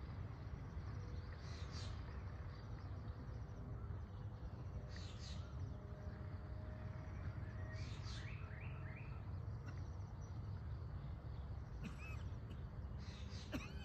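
Birds calling: short chirps every few seconds, with a quick run of falling notes about eight seconds in, over a steady low rumble.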